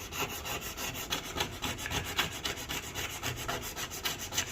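Caked-on grease being scraped off a stovetop, the scraper rasping back and forth in quick, even strokes several times a second.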